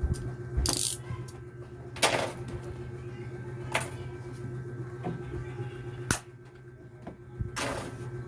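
Handling of small tools and parts on a workbench: about five scattered sharp clicks and short scraping rustles, over a steady low electrical hum.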